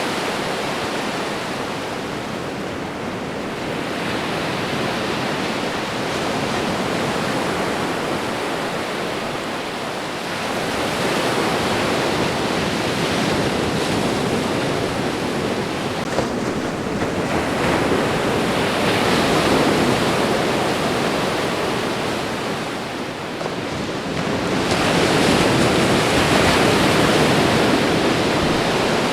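Ocean waves washing onto a shore, a continuous rush of surf that swells and eases as each wave comes in, with about three larger surges.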